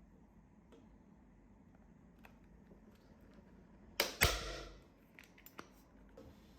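Manual staple gun firing twice in quick succession, two sharp snaps about a quarter second apart, followed by a few lighter clicks, as staples are driven while fixing upholstery webbing to a bench frame.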